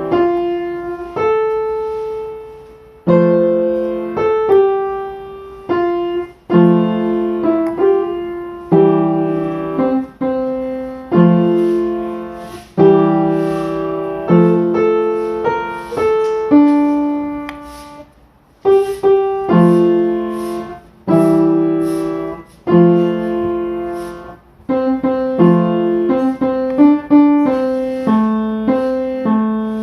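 Solo piano music: slow chords struck and left to ring out, a new one every second or two, with a brief pause about eighteen seconds in.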